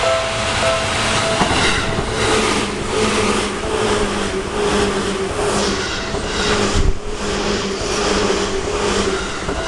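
Seibu 2000 series electric train passing close through a level crossing, its wheels clattering rhythmically over the rail joints under a steady hum. The crossing's two-tone warning bell is heard in the first second before the train drowns it out, and there is a low thump about seven seconds in.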